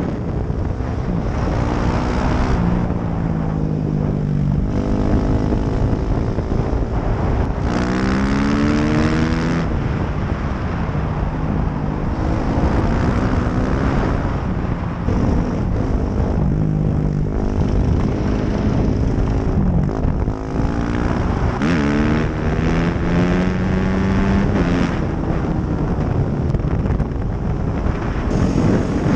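Dirt bike engine accelerating hard, its pitch climbing and then dropping back again and again as it shifts up through the gears.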